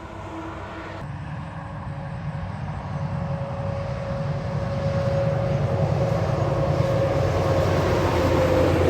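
A heavy truck approaching, its engine rumble and tyre noise growing steadily louder, with a steady whine that drops slightly in pitch near the end.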